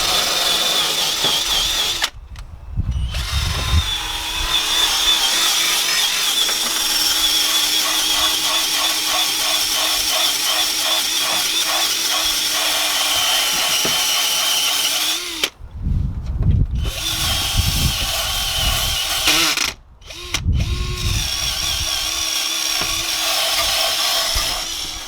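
Power drill spinning a wire brush against old seam sealer: a steady high whine with scraping, stopping briefly three times and starting again. It is heavy going for the drill, which they wonder is overloaded.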